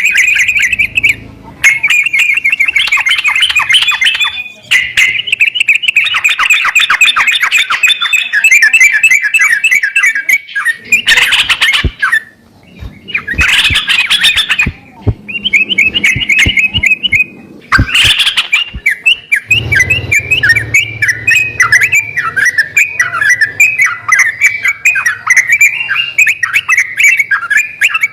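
Yellow-vented bulbul (trucukan) calling, with quick chattering runs of short, rapidly repeated notes broken by short pauses.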